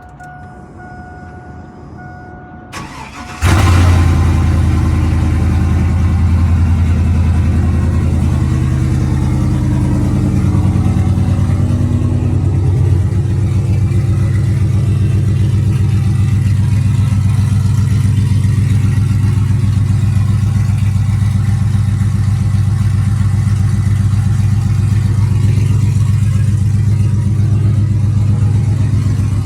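GM 5.3-litre V8 with long-tube headers, a Y-pipe and a straight-pipe exhaust, cold started. It cranks briefly, catches loudly about three and a half seconds in, and runs at a fast cold idle that eases down slightly around twelve seconds in, then idles steadily.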